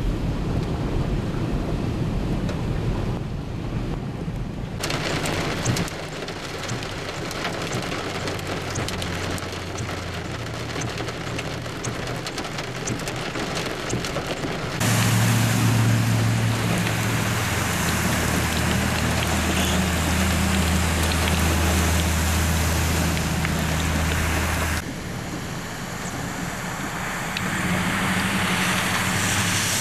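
Heavy rain, with cars driving through flooded streets and throwing up water. The sound changes abruptly about 5, 15 and 25 seconds in, and a steady low engine hum sits under the rain in the middle stretch.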